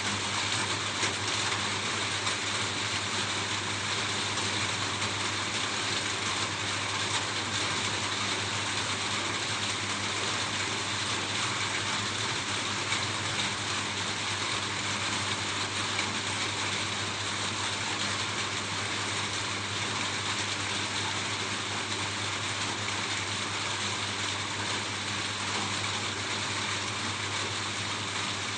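Steady rain falling on a roof: a dense, even hiss of many drops.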